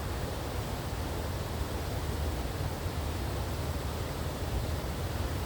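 Waterfall's steady rush of falling water, an even noise with a heavy low rumble and no breaks.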